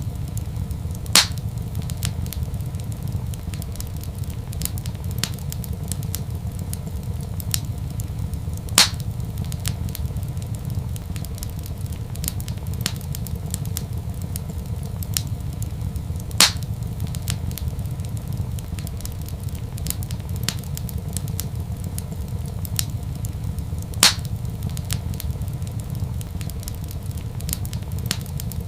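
Wood fire crackling in a fireplace over a steady low rumble: a stream of small faint crackles, with a louder sharp pop about every seven and a half seconds, four in all.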